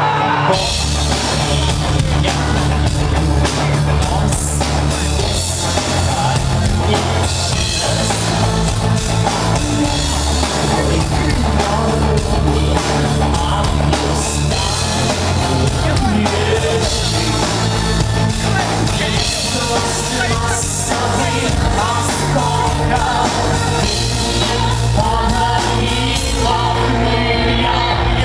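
A rock band playing loudly with drums, bass and guitar, and a singer's voice over it.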